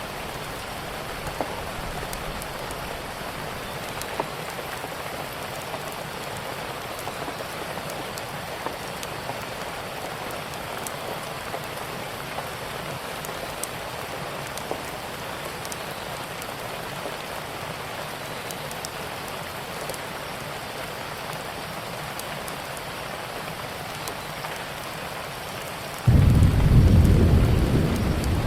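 Steady rain falling, with scattered small ticks and pops. About 26 seconds in, a loud, low rumble of thunder breaks in suddenly and keeps rolling.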